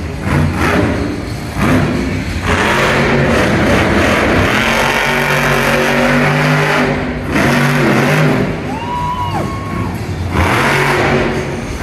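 Monster truck's engine revving hard and running loud, in several segments that change abruptly from one to the next.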